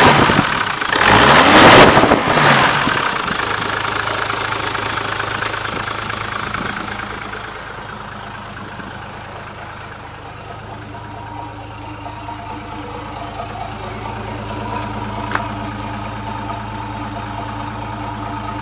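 Diesel truck engine, running on a newly installed injection pump and injectors. It revs up and down briefly at the start, then settles to a steady idle.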